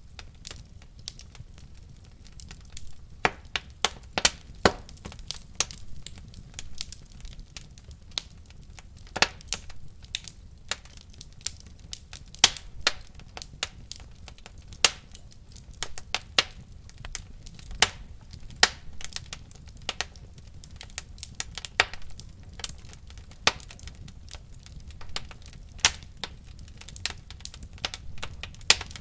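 Wood fire in a fireplace crackling, with irregular sharp pops and snaps of burning logs over a low steady rumble of the flames.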